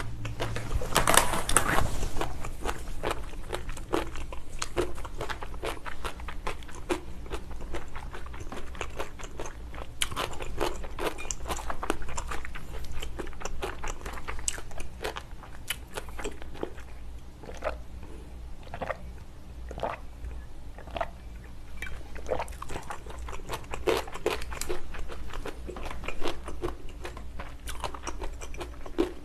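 Close-up mouth sounds of someone chewing sticky braised ox foot: a steady run of wet clicks and smacks, with a louder cluster about a second in.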